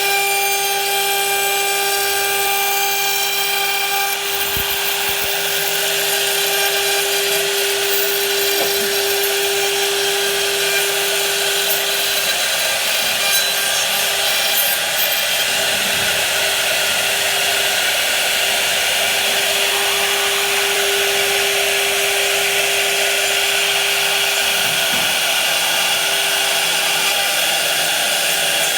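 Power tool running steadily with a high whine while cutting into wood.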